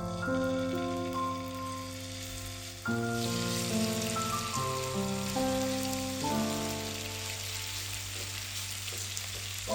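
Food sizzling in hot oil in a frying pan, starting about three seconds in, under background piano music.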